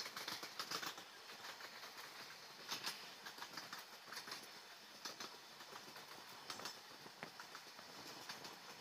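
Express train passing on the track, with the wheels clicking and clattering over the rails against a steady rushing hiss.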